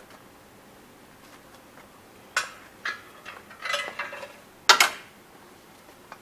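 Metal tools and parts clinking and clanking as they are handled, a few sharp separate knocks with the loudest about three-quarters of the way through.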